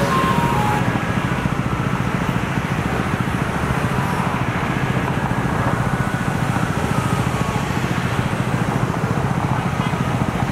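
Garbage truck's diesel engine running steadily at idle, a low rumble with a fast even pulse.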